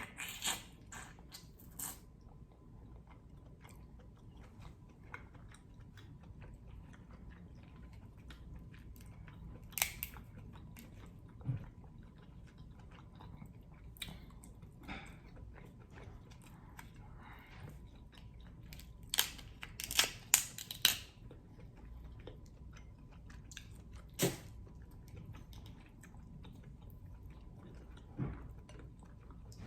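Close-miked chewing and mouth smacks while eating king crab in garlic butter sauce: scattered sharp wet clicks and smacks, with a quick cluster about twenty seconds in.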